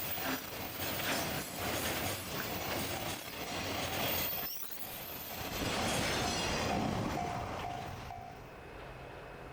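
Freight train running past on the rails, its wheels giving off a harsh, unpleasant noise that the uploader suspects comes from the rails. The sound eases off about eight seconds in.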